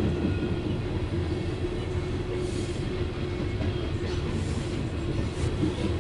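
Loaded coal hopper cars of a freight train rolling past a grade crossing: a steady rumble of wheels on rail.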